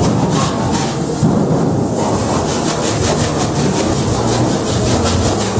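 Fast, even rasping strokes, about four to five a second, like a hand saw or abrasive working wood. The strokes break off briefly about a second in, then resume.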